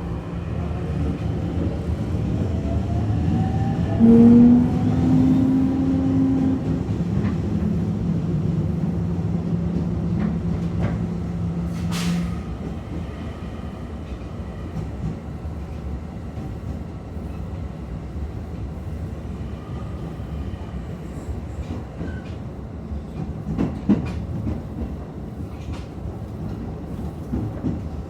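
Toei 10-300 series train's Mitsubishi IGBT-VVVF inverter whining as the train pulls away. The tones rise, jump in pitch about four seconds in, then hold steady until they stop about twelve seconds in. After that the train coasts, with rolling noise and the clack of wheels over rail joints.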